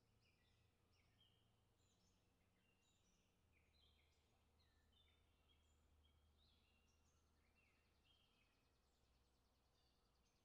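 Near silence: very faint bird chirping, many short high calls in quick succession, over a low steady hum.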